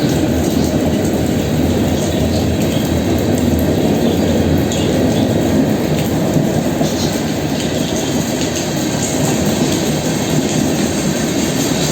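Freight train rolling past, a steady loud rumble of railcar wheels on the track.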